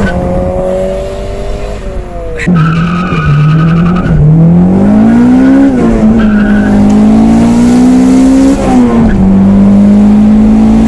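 Turbocharged Honda B18B four-cylinder pulling hard through the gears, heard from inside the car. About two and a half seconds in the note drops and gets louder, then it climbs, falls at a shift near the middle, climbs again and falls at a second shift about nine seconds in, then holds steady.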